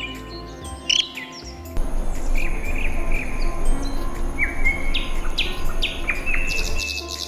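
Several songbirds chirping and calling in short trills and whistled notes over soft, steady background music. A steady hiss joins about two seconds in and drops out near the end.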